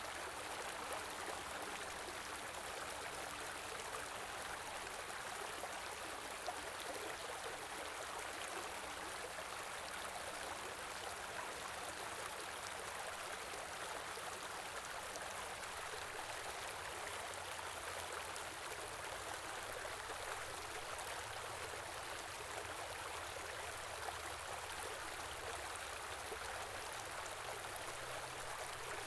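Shallow stream rushing and babbling in a steady flow, with small splashes and trickles.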